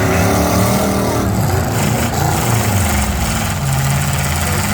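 Demolition-derby cars' V8 engines running loudly, one revving with its pitch rising and falling in the first second or so, then running on more steadily.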